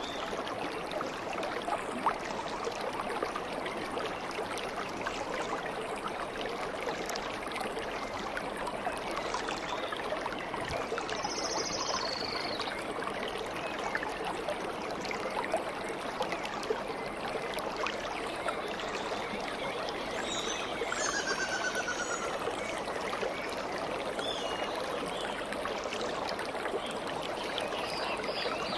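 Water flowing and trickling in a stream, with a few short bird calls over it near the middle and again a little later.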